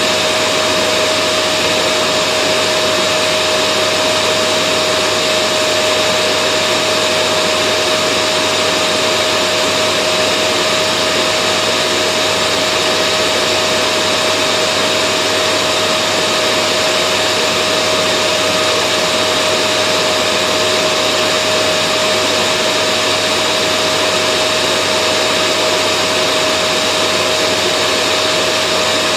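Vacuum cleaner running steadily, a constant whooshing motor noise with a high steady whine and no change in level.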